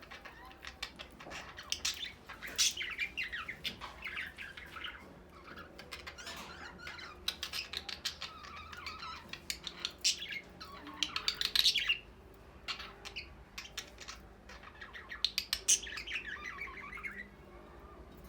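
A group of Australian parrots (budgerigars) chirping, chattering and squawking, in busy spells of rapid short calls with a quieter lull about two thirds of the way through.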